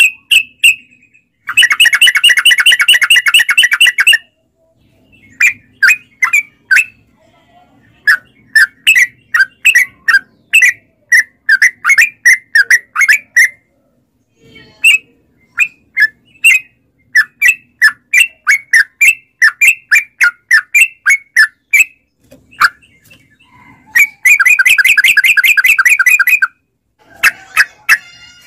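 Yellow-vented bulbul (trucuk) singing: a long, rapid rolling chatter near the start and again near the end, with a run of separate short chirping notes, about two or three a second, in between.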